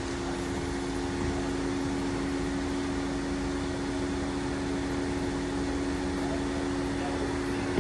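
Steady mechanical hum with two constant tones over a light hiss, unchanging throughout, ending in a low thump.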